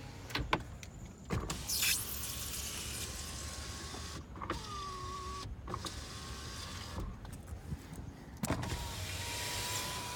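2010 Ford Expedition power window motors running the glass up and down several times in a row, each run a steady whine that starts and stops with a sharp click. The windows are working normally.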